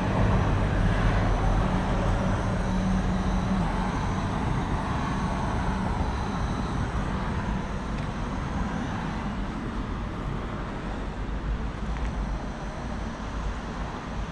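Car engine idling: a steady low hum under a broad hiss, gradually getting quieter.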